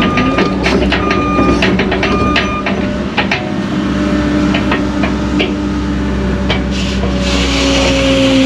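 Cat excavator's diesel engine running, its pitch stepping up about three and a half seconds in, with scattered clanks and knocks throughout. A beep sounds about once a second for the first few seconds, and a hiss comes in near the end.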